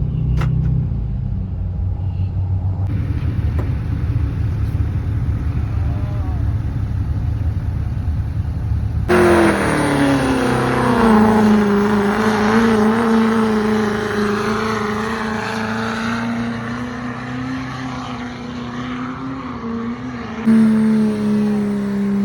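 Diesel pickup truck engines: a low rumbling run for about nine seconds, then a sudden cut to a loud, sustained high-revving engine note held at full throttle, as a truck under load in a sled pull, with another cut to a similar steady note near the end.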